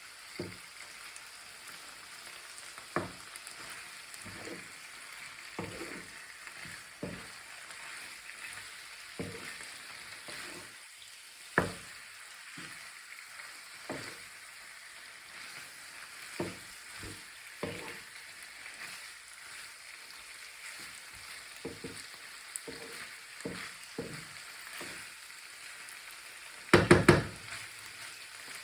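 Vegetables frying in a pan with a steady sizzle, stirred with a utensil that knocks against the pan every second or so. Several loud knocks come close together near the end.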